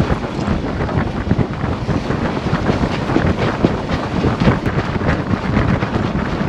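Strong wind buffeting the microphone aboard a sailboat: a steady rough rush broken by many short crackles and knocks.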